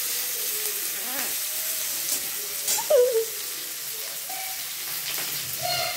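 Chopped onion with garlic and green chilli sizzling in hot oil in a wok, stirred with a metal spatula: a steady frying hiss. A brief louder sound comes about three seconds in.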